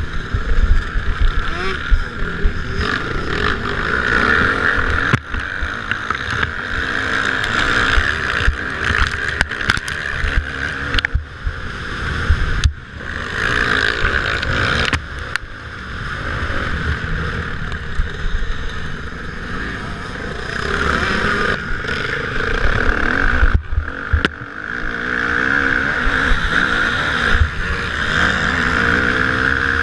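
Motocross motorcycle engines racing, the pitch rising and falling as the throttle opens and closes, with a couple of brief sharp drops, and wind on the microphone.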